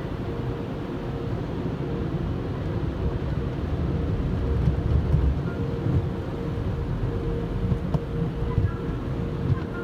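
Car wash machinery running: a steady low rumble with a faint, even motor hum and a few light clicks near the end.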